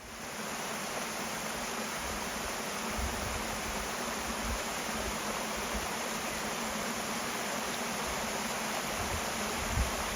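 Rushing water of a mountain stream or cascade: a steady, even hiss that starts abruptly.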